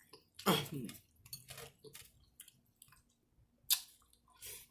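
A person chewing food close to the microphone, with scattered wet mouth clicks and smacks and a short voiced sound about half a second in.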